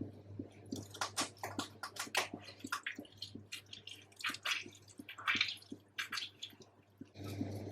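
Kitchen handling sounds: a run of small clicks and knocks with a few short wet, splashy swishes, like things being handled and rinsed with water.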